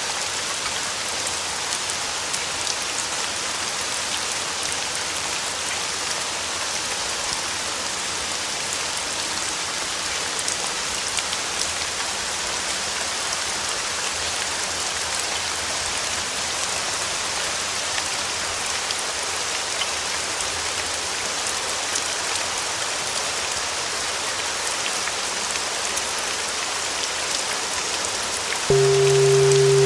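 Steady rain falling. About a second before the end, a steady 396 Hz tone with lower tones beneath it starts suddenly and sounds louder than the rain.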